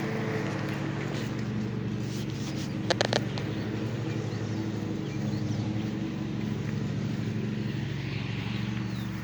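A steady engine-like hum, like a vehicle idling, with a brief cluster of sharp clicks about three seconds in.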